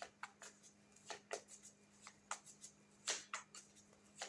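Tarot cards being handled: faint, scattered clicks and rustles of card stock at irregular intervals, over a faint steady hum.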